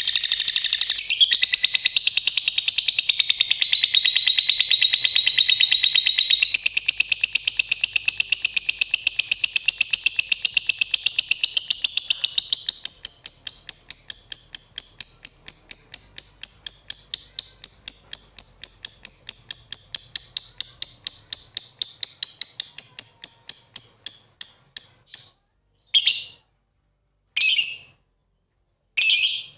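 Lovebirds chirping in a rapid, continuous high-pitched chatter that breaks up into a few short separate bursts over the last few seconds.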